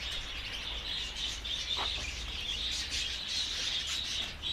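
Lovebirds chattering: a steady stream of rapid, high-pitched chirps.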